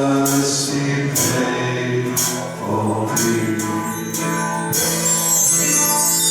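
Worship band playing the closing bars of a worship song, with percussion hits about once a second, then a final held chord with a cymbal swell about five seconds in.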